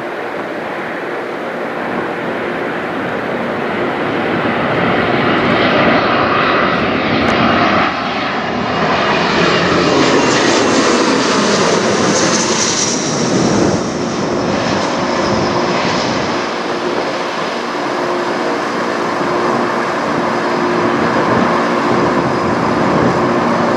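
Embraer ERJ-145LR regional jet's twin turbofan engines passing overhead: a loud, steady rushing noise with whining tones that drop in pitch about halfway through as the jet goes by.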